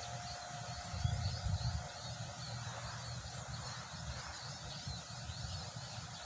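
Wind buffeting the microphone in a low, uneven rumble, with a stronger gust about a second in, over faint, continuous high chirping from the surroundings.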